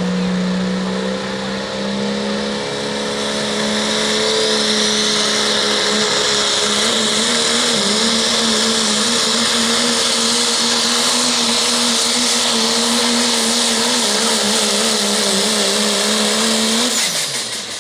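Dodge diesel pickup truck at full throttle pulling a sled, its engine held at high revs in one long steady run with the pitch wavering in the middle of the pull. Near the end the revs drop quickly as the driver lets off.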